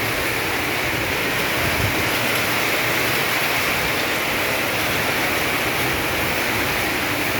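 Torrential rain pouring down in a dense, steady hiss that does not let up.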